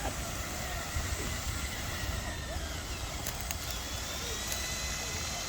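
A small electric motor, the RC dump truck's 12-volt drive, whines faintly over a steady low rumble. The whine falls and then rises in pitch as the motor's speed changes, with a few faint clicks a little past the middle.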